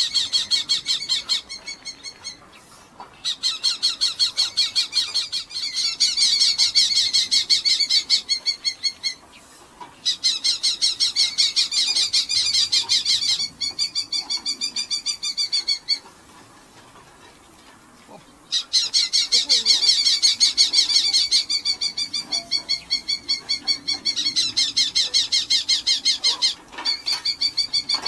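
Red-footed falcons calling: long runs of shrill, rapidly repeated calls, several a second, broken by a few short pauses.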